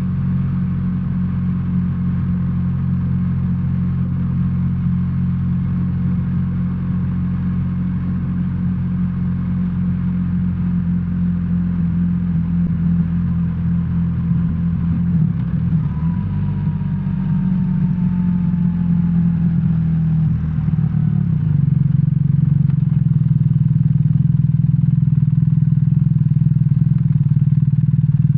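BMW R1300R's boxer-twin engine running under way, heard from the rider's seat as a steady low drone. Its pitch shifts about fifteen seconds in, and it runs louder from about twenty-one seconds on.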